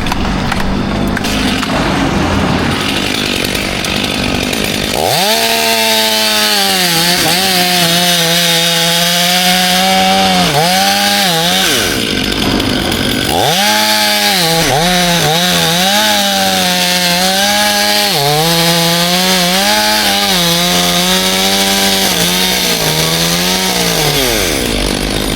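Chainsaw revving up to full throttle about five seconds in and held there with small dips in pitch as it cuts. It drops off briefly around the middle, then revs up and runs again, dipping repeatedly, until it falls away near the end.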